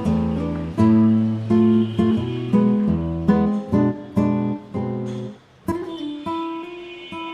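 Background music: acoustic guitar strummed in an even rhythm of chords, breaking off about five and a half seconds in before a chord rings on.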